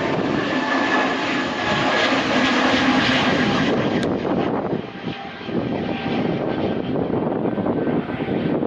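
Airliner taking off, its engines running at takeoff power with a faint steady whine; loudest in the first half, easing a little about five seconds in.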